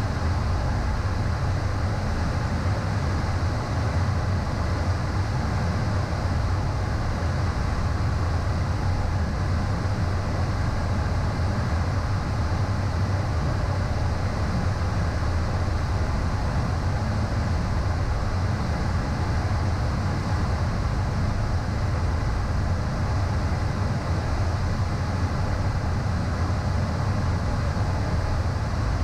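Steady cockpit noise of a Beechcraft Premier I jet in a fast descent: airflow and turbofan engine hum, a deep unchanging drone with a faint high steady tone over it.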